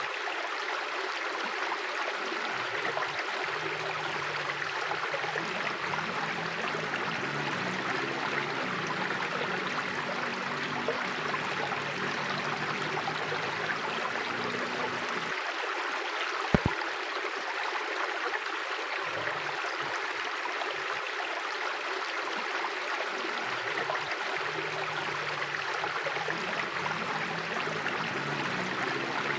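Mountain river flowing steadily, an even rushing of water, with a single sharp click a little over halfway through.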